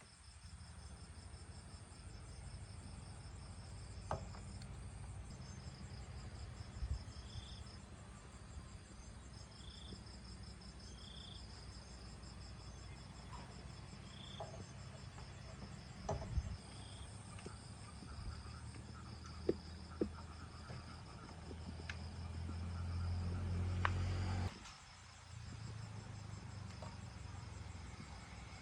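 Insects, crickets by the sound of it, chirping in steady high pulsing trains, with a few faint clicks and knocks. A low hum swells near the end and then cuts off suddenly.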